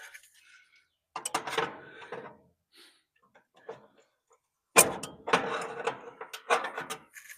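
Metal clanking and rattling as parts of an electric clothes dryer are knocked and pulled at to get the drive motor out, in two spells of knocks, the louder one near the end.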